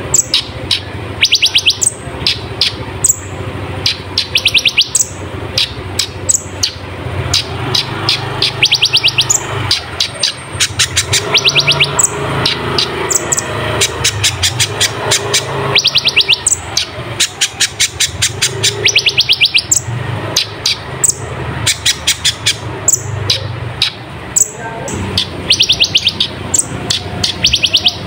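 Kolibri ninja sunbird singing: bursts of rapid, high, buzzy trills about a second long, repeated every second or two with sharp high notes between them. This is the wild-caught, full-voiced song used as a master recording to train and excite caged birds. A steady low hum runs underneath.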